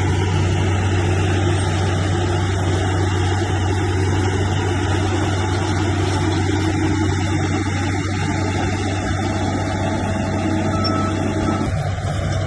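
Heavy diesel engine of an earthmoving machine running steadily under a low, even hum. The sound changes abruptly near the end.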